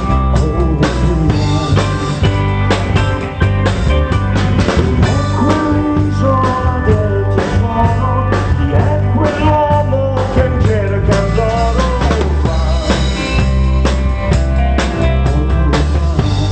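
Live pop band playing through the PA: drum kit and bass keeping a steady beat under a wavering lead melody.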